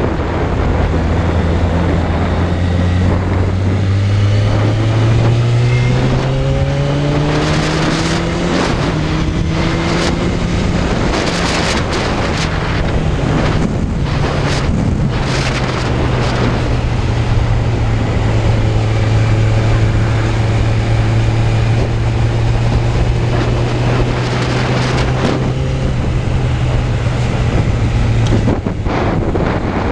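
Suzuki Bandit 600's inline-four engine on the move, its pitch rising in steps as it accelerates through the gears in the first several seconds, then holding a steady cruise before dropping shortly before the end. Wind buffets the microphone throughout.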